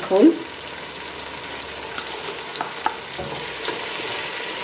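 Onion and tomato base sizzling steadily in a cooking pot as dried lentils and split fava beans are added, with a few light clicks of beans dropping in.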